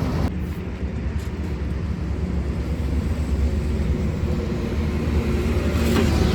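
A steady, low, engine-like rumble.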